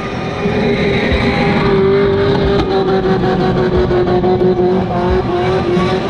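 Car engine held at steady high revs in a sustained burnout, its note hardly changing, over the noise of the spinning rear tires.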